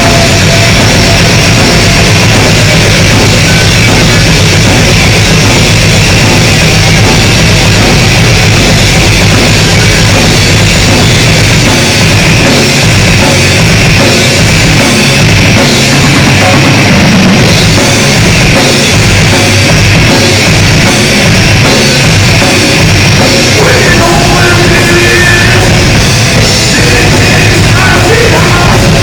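Heavy metal played very loud by a live band: distorted electric guitars over a drum kit.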